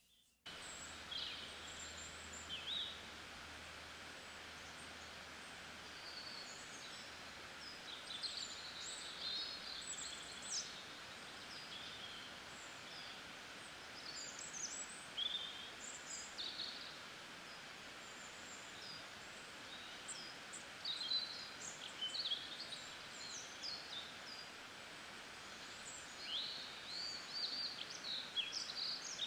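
Nature-sounds ambience: many birds chirping and calling in short, scattered bursts over a steady outdoor hiss, cutting in after a brief gap at the start.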